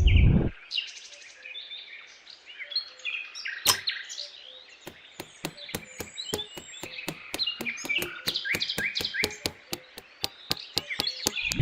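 Small birds chirping continuously. About five seconds in, a steady run of sharp clicks or taps starts, roughly four a second, and it stops shortly before the end.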